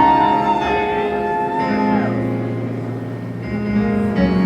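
Live band playing the song's instrumental intro in a concert hall: held guitar chords over a sustained bass note.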